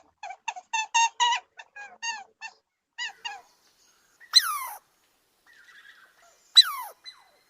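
Animal calls: a quick series of short, pitched honking calls, about four a second, that tails off after about two and a half seconds, followed by two loud, sharp squeals that fall steeply in pitch, about two seconds apart.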